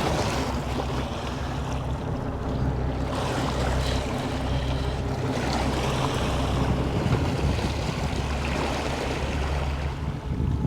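Boat engine running steadily, with sea wash and wind buffeting the microphone.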